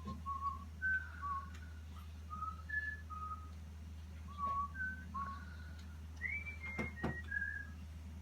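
A person whistling a slow tune: a string of short, steady notes stepping up and down in pitch, over a constant low hum. Two sharp knocks sound near the end.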